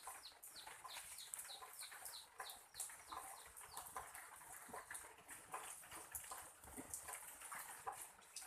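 Faint bird chirping: a quick run of short falling chirps, about four a second, then a few scattered chirps.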